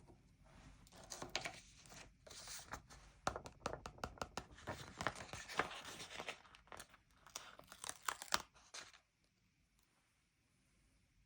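Stickers being peeled off their backing sheet and handled: an irregular crackly tearing and rustling of paper with sharp little clicks, which stops about nine seconds in.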